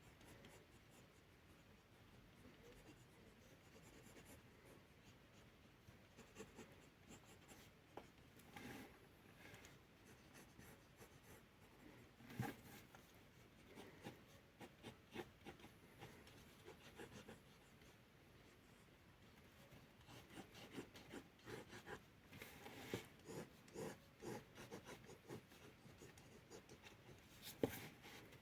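Faint scratching of a drawing tool on paper in many short strokes, busier in the last third, with two sharper knocks, one near the middle and one near the end.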